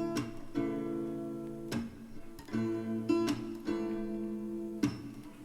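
Background music: acoustic guitar strumming chords at a slow, gentle pace between sung lines of a ballad.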